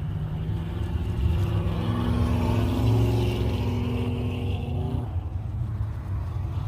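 A car engine accelerating as a car pulls out and drives past, its note rising and loudest about three seconds in, then dropping away suddenly at about five seconds, over a steady low engine rumble.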